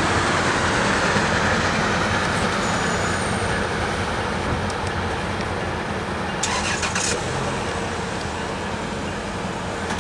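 MARC commuter train's bilevel passenger coaches rolling past on the rails, the rumble slowly fading as the rear cab car moves away. A short cluster of sharp clicks comes about six and a half seconds in.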